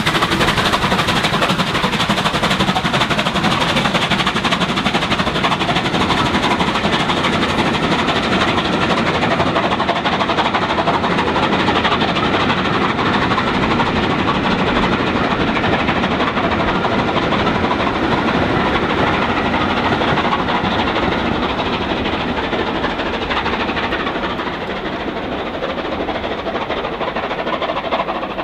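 Steam-hauled passenger train behind Bulleid West Country Class Pacific 34046 Braunton pulling away, its coaches rumbling and clattering over the tracks and points, fading gradually in the last several seconds as the train draws off.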